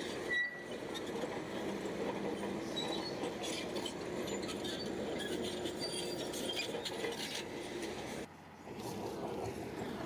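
Shantui crawler bulldozer at work: the engine runs steadily, with scattered metallic clinks from the tracks. The sound drops out briefly a little past eight seconds.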